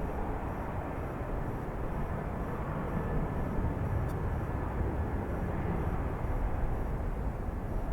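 Airliner jet engines running, a steady rumble and hiss with no rise or fall.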